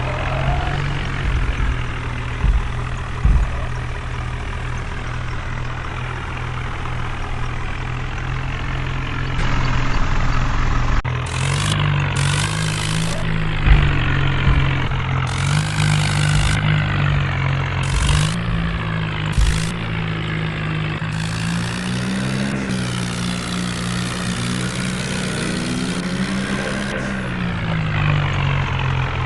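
Diesel tractor engine running steadily, then revving up and easing back several times in the second half as it works under load, with a few sharp knocks.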